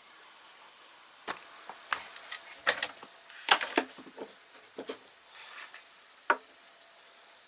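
Irregular knocks and clicks of hard objects being handled and set down, loudest in a cluster a little under three and three and a half seconds in, with a last sharp knock past six seconds.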